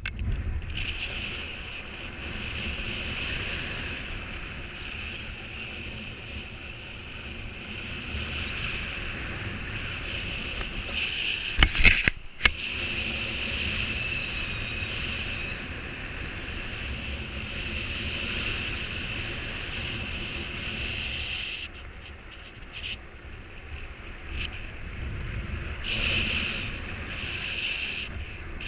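Strong wind rushing over the microphone: a steady low buffeting rumble with a hiss above it that eases for a few seconds past the middle. A brief cluster of sharp knocks about twelve seconds in.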